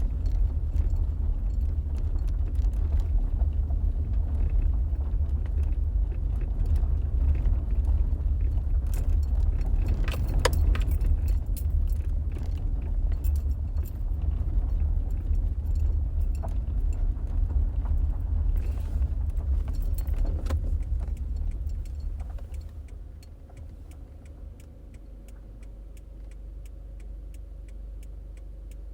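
Car cabin road noise: a steady low rumble from the tyres and engine while driving, with a few small rattles and clicks. About three-quarters of the way through the rumble falls away as the car slows, and a faint regular ticking starts.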